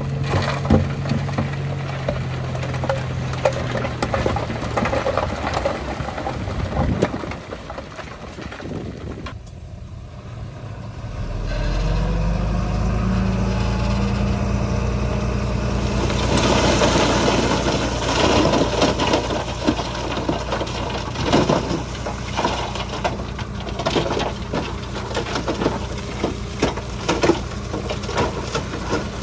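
Heavy diesel engine of a Shantui bulldozer running, with frequent metallic clanks and knocks over it. The engine sound drops away for a few seconds about a third of the way in, then comes back louder with a brief rise in pitch and runs on steadily.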